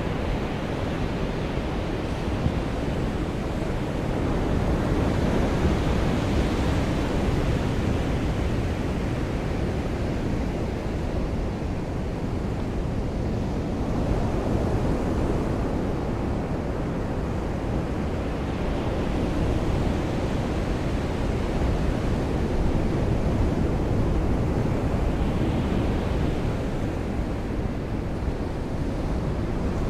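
Sea waves breaking and washing ashore in slow swells every several seconds, over a steady hiss of rain.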